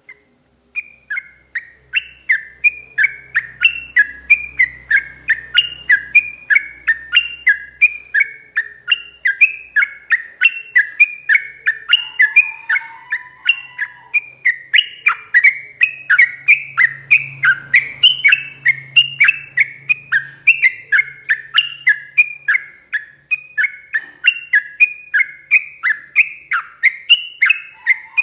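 Sooty-headed bulbul singing a long, rapid, unbroken run of short falling whistled notes, about three a second, starting about a second in.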